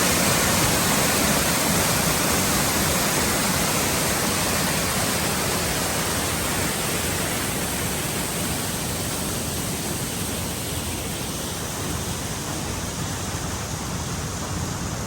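Mountain waterfall cascading, a loud, steady rush of water that eases slightly over the last few seconds.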